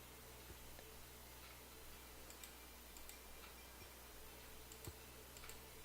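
Near silence with a few faint, scattered computer mouse clicks over a steady low hum.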